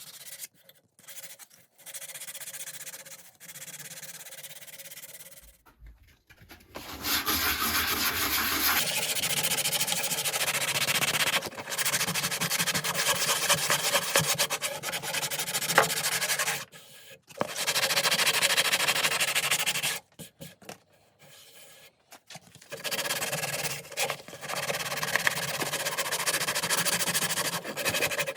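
Wooden hatchet handle being abraded, sanded or rasped. There are lighter scraping strokes for the first few seconds, then louder stretches of several seconds each with brief pauses between them.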